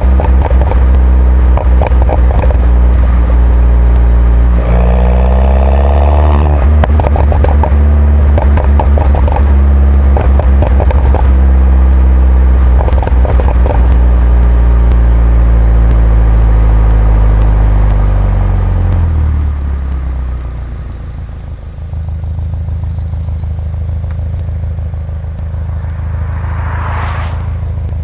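Mini Cooper John Cooper Works 1.6-litre turbocharged four-cylinder with its stock exhaust, heard driving: the engine note climbs a little and holds with scattered crackles, then drops away as the car slows and settles to a lower, steady idle. A brief rising-and-falling whine comes near the end.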